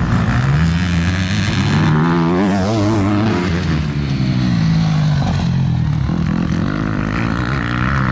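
Motocross bike engines racing, revving up and down repeatedly as the riders work the throttle around the track.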